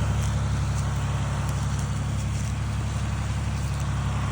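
John Deere tractor engine running steadily under load as it pulls a big log.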